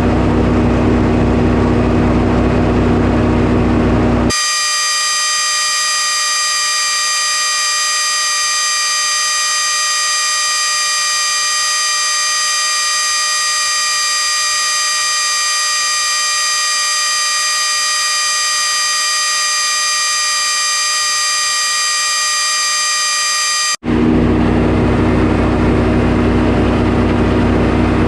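Sawmill engine running steadily. About four seconds in, the sound cuts abruptly to a steady, high-pitched, horn-like buzzing whine made of several pitches. The whine stops suddenly near the end and the engine sound returns.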